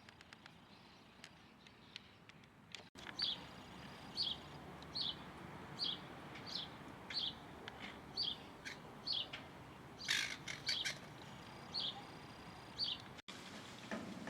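A bird calling repeatedly: short, high chirps a little faster than one a second, starting about three seconds in. A brief flurry of sharper sounds comes about ten seconds in.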